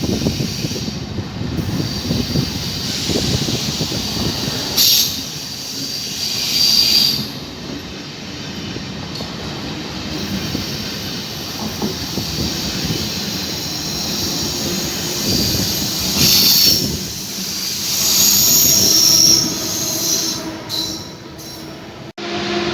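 Train rolling through a station with a steady rumble, and its wheels squealing in several short high bursts, the strongest about halfway through and again near the end.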